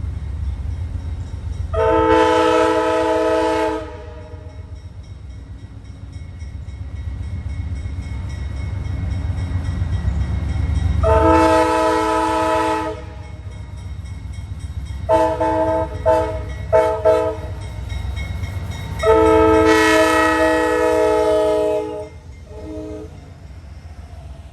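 Diesel locomotive's multi-chime air horn sounding a grade-crossing signal: two long blasts, a few quick short toots, then a final long blast, over the low rumble of the train running by.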